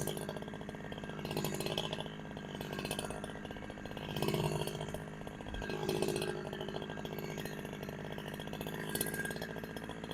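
Two-stroke chainsaw engine running steadily, its sound swelling and easing every second or two.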